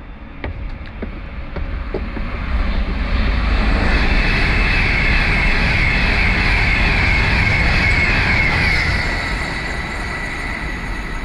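A train passing at speed on the main line: a rumble with a high whine that builds over a couple of seconds, holds loud for several seconds, then fades and drops slightly in pitch near the end.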